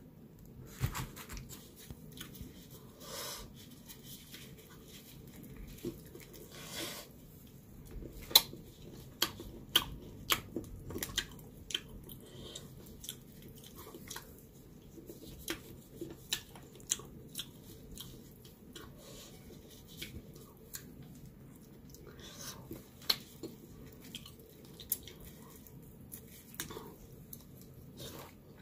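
Close-up chewing and biting of spicy chicken feet salad: wet mouth sounds with many irregular sharp clicks, getting denser and louder from about eight seconds in.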